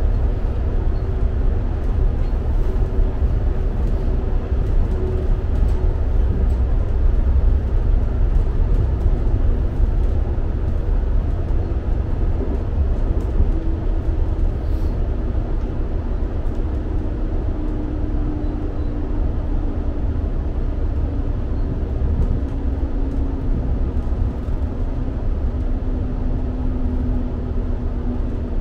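Inside a passenger train carriage running at speed: a steady low rumble from the train, with a faint hum that slowly drops in pitch through the second half.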